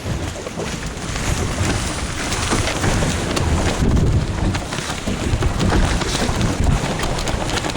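Wind buffeting the microphone over rushing, splashing water from a sailing dinghy out on the water, in uneven gusts.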